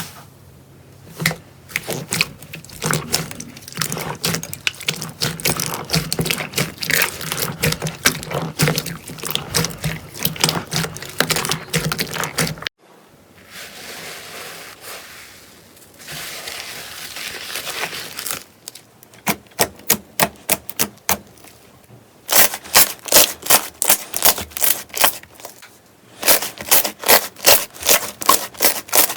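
Slime being pressed and squeezed by hand: a dense run of sharp sticky clicks and crackles, then a softer stretch of rubbing, then evenly repeated clicks at three or four a second.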